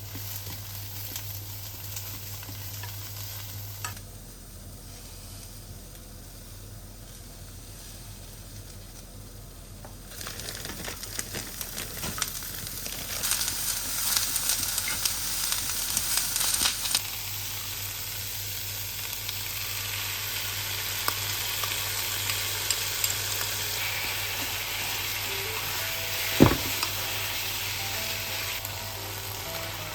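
Food frying in a pan, sizzling, with a utensil stirring and clicking against the pan; the sizzle grows busier about a third of the way in, and a single sharp knock comes near the end.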